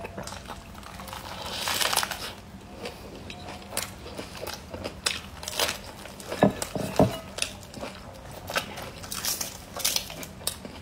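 Close-up chewing and crunching of a large wrap of raw leafy greens, with crisp leaf crinkling and wet mouth clicks. The two loudest crunches come close together about six and a half and seven seconds in.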